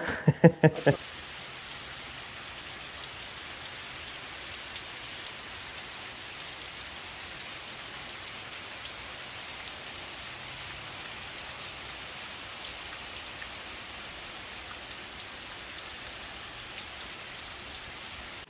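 Steady rain falling and pattering on surfaces, an even hiss that holds throughout. A few loud knocks come in the first second.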